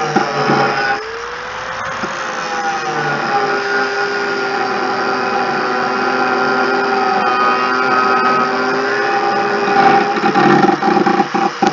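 A motor running steadily, its pitch dipping and recovering twice early on as if under load, with a few sharp knocks near the end.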